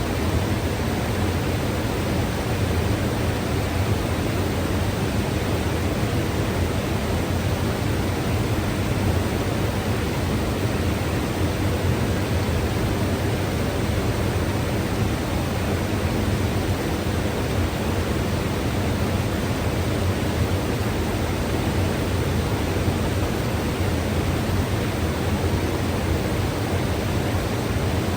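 A mountain river rushing steadily, a constant full rush of flowing water with a deep low rumble and no breaks.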